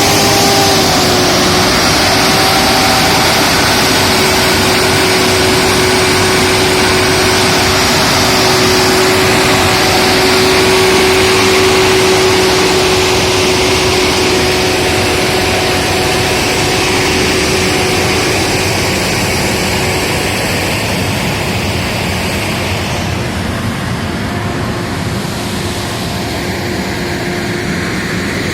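Old truck engine running steadily, with a steady whine over it that fades out about twenty seconds in.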